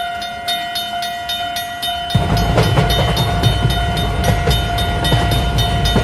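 Railway-crossing soundtrack: a crossing bell dinging in an even rhythm over a held steady tone, joined about two seconds in by the low rumble of a passing train.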